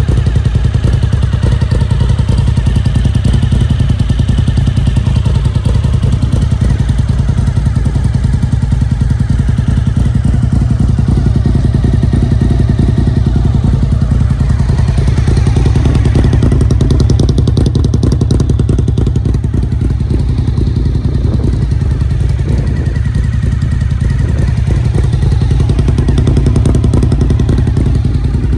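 Cagiva Raptor 1000's 90-degree V-twin idling steadily through an aftermarket Roadsitalia exhaust, a loud, lumpy, deep pulsing, while it is still warming up after a cold start.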